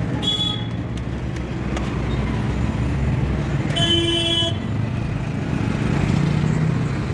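Steady road-traffic rumble with two vehicle horn honks, a short one near the start and a longer one about four seconds in.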